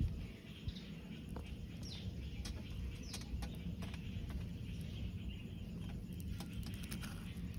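A few short, high bird chirps falling in pitch, about two and three seconds in, over a low steady rumble, with scattered small clicks.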